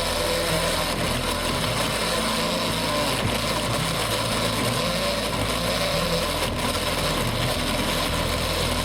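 Electric blender motor running steadily at speed, blending a batter.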